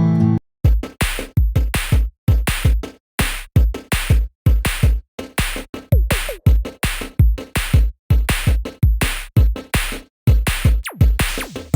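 Electronic background music with a punchy drum-machine beat, choppy with brief silences between the hits. It starts about half a second in, after a strummed guitar tune cuts off.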